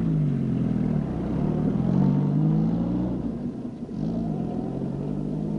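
Motor vehicle engine revving and driving off, its pitch climbing and dropping several times as it goes through the gears.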